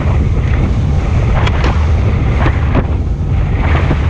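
Boat running at speed on open water: a steady low engine-and-hull rumble with wind buffeting the microphone, and a few brief splashes about a second and a half and two and a half seconds in.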